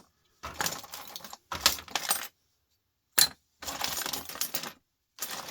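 Small scrap parts clattering as they are handled and sorted by hand on a workbench, in several short bursts, with a single sharp clink about three seconds in.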